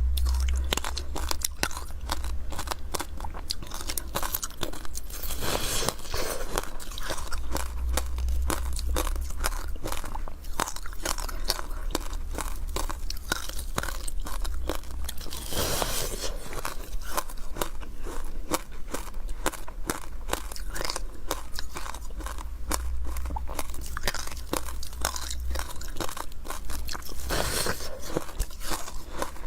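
Close-up crunching of refrozen powdery freezer ice as a mouthful is bitten and chewed, a dense run of soft, rapid crunches with a few louder bites.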